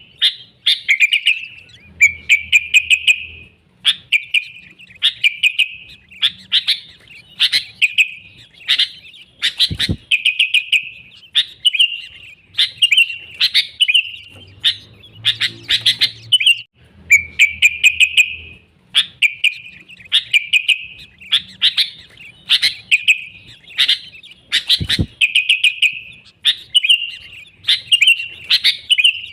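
Sooty-headed bulbul (kutilang) singing: a steady run of short whistled phrases, about one a second. Two sharp clicks about fifteen seconds apart.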